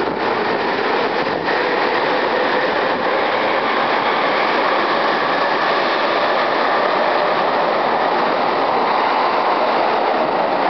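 JR East E231 series 800-subseries electric commuter train pulling out of an underground station platform, its wheels running on the rails with a rising whine from the traction motors as it gathers speed. The sound is steady and loud in the tunnel.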